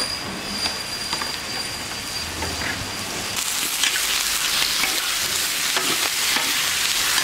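Chunks of goose meat sizzling in a black iron wok, a metal spatula scraping and tossing them. The sizzle grows louder about three seconds in as the stirring starts in earnest.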